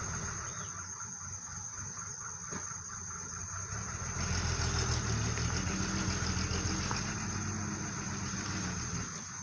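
Loaded sugarcane truck's diesel engine running, revving harder about four seconds in as the truck pulls forward on slippery mud, then easing back near the end.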